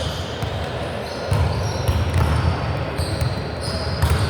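Indoor volleyball match: a ball being struck and bouncing on the court amid the steady murmur of players and spectators in a large hall, with a sharp hit about four seconds in.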